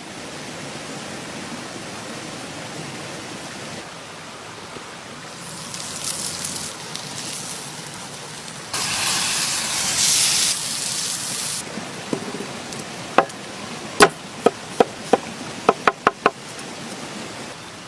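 Food sizzling on a hot grill, a steady hiss that grows louder and brighter twice. Near the end comes a quick run of about nine sharp knocks.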